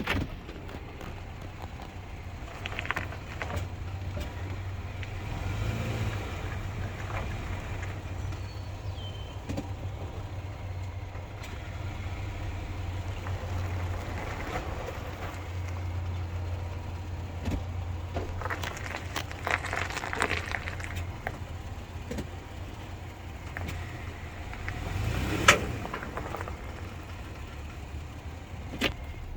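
Scattered sharp pops over a steady low hum; the loudest pop comes about 25 seconds in.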